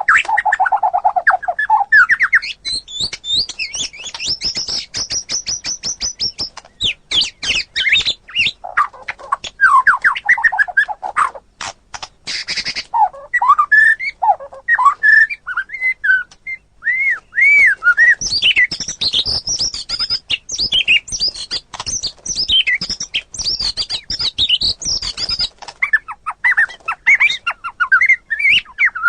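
White-rumped shama singing a long, varied song in full voice: high clear whistles, fast rattling chatter, and swooping notes, with a brief pause near the end.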